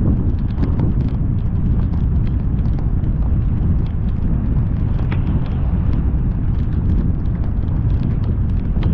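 Car driving through heavy rain: a loud, steady low rumble from the car and road, with raindrops ticking irregularly and fast on the car and camera.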